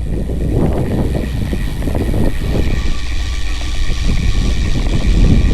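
Wind buffeting the microphone while cycling along a road, mixed with the low rumble of road traffic.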